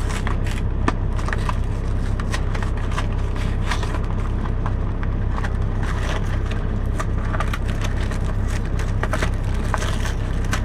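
Handling noises: irregular crinkles, clicks and light knocks as a frozen pizza and its packaging are tried in a small air fryer's basket, over a steady low hum.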